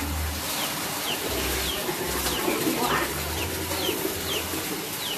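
A small bird chirping over and over: short high notes that fall in pitch, about two a second, over an intermittent low rumble.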